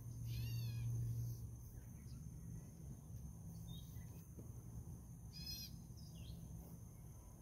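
Wild birds calling: a quick run of short, falling high notes near the start and another about five and a half seconds in, with a few softer chirps between. A steady low hum runs under them and is loudest in the first second or so.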